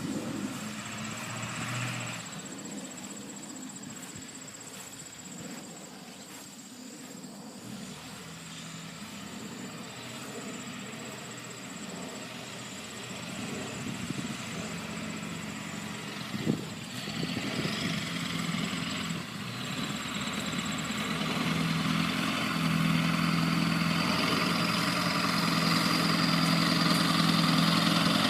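Ford truck engine running, growing louder through the second half, with one brief sharp knock about sixteen seconds in, after which it runs steadily with a thin high whine.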